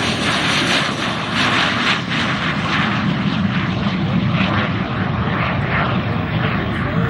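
Jet aircraft flying past with a loud, steady roar; its high hiss dulls toward the end.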